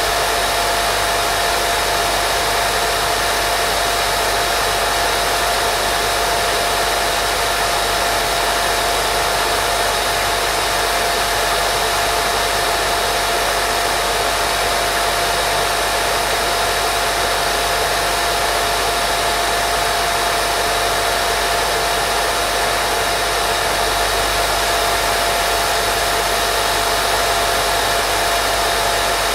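Steady white noise for lulling a baby to sleep: an even, unbroken hiss with a steady mid-pitched hum running through it.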